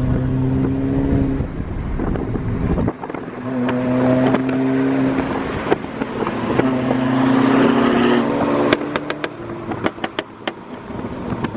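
Car on the move, with wind buffeting the microphone. A steady droning tone comes in three times, a second or two each, and a quick run of sharp clicks sounds near the end.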